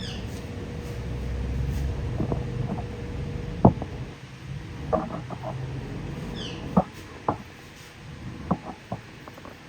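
A series of sharp clicks and taps, the loudest about a third of the way in, with two short, high, falling bird chirps, one at the start and one about six and a half seconds in. A low rumble underneath fades out about four seconds in.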